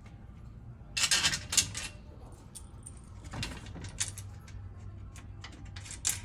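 Screws and washers being handled, a few short metallic rattles and clinks, the loudest about a second in.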